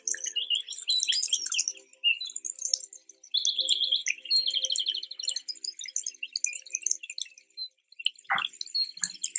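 Birds chirping, with two fast trills of rapidly repeated notes in the middle and a quick falling swoop near the end.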